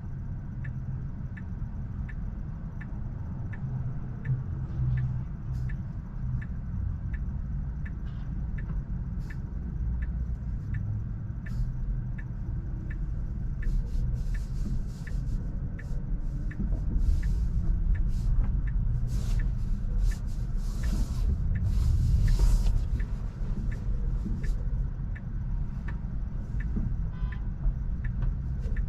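Tesla car on the move: a steady low road rumble with its turn signal ticking evenly, about one and a half ticks a second. Around the middle, several brief hissing swells of passing traffic or tyre noise rise over it.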